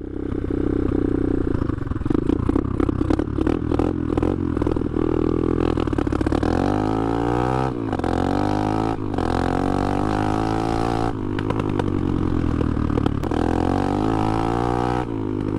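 Dirt bike engine running really loud, choppy and uneven at first, then revving up in pitch several times with short breaks between the rises, as when accelerating through the gears.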